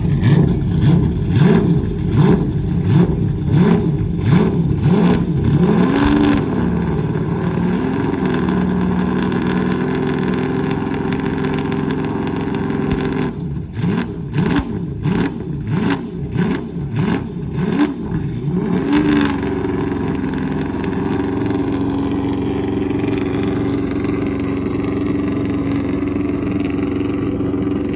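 V12 engine of a Lexus RC F drift car being revved in quick throttle blips, about two a second, in two runs of about six seconds each. It settles to a steady idle between the runs and near the end.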